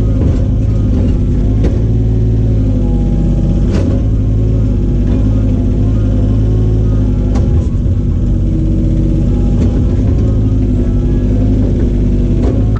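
An engine running steadily at an even speed, with a few sharp knocks.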